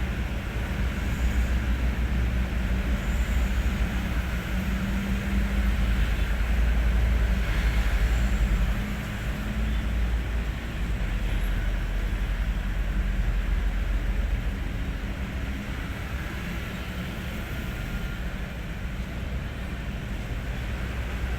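Hino 500 truck's diesel engine running with a steady low rumble, easing to a lower level about nine seconds in.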